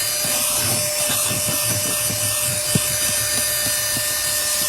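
Cordless handheld car vacuum running with a steady whine and rushing air, its nozzle scraping back and forth over car carpet in short irregular strokes.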